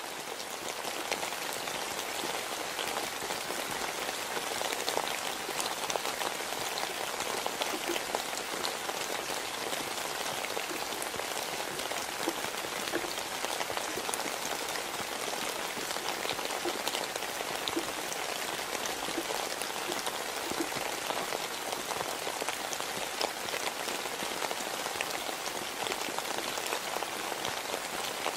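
Steady rain falling, an even hiss with many scattered individual drop hits; it swells up over the first second and then holds steady.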